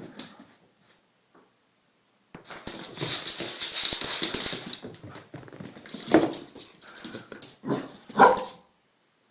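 A dog barking twice, short and loud, near the end, after a few seconds of hissy noise.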